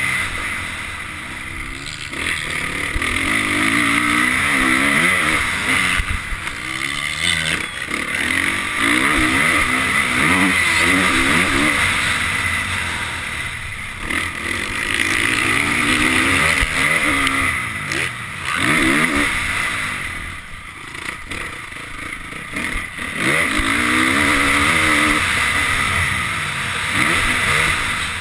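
Honda CRF450 motocross bike's single-cylinder four-stroke engine, heard from the rider's helmet, revving up and falling back again and again as it is ridden hard around a dirt track, with brief dips as the throttle is shut.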